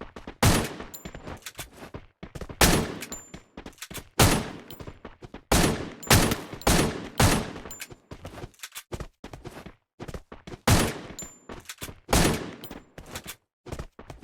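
An irregular series of sharp knocks and impacts, the loudest coming every second or two with many fainter clicks between.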